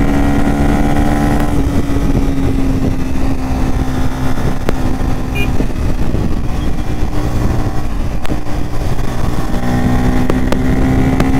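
Bajaj Pulsar N250's single-cylinder engine running at highway speed, about 100 km/h, with wind rush. The engine note drops as the throttle is eased off about a second and a half in, then picks up again near the end as the bike accelerates.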